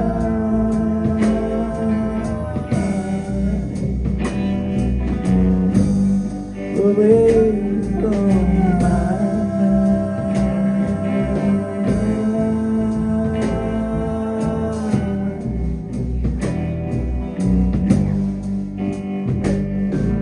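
Live band music: an instrumental passage with guitar over a steady beat, some notes bending in pitch about seven seconds in.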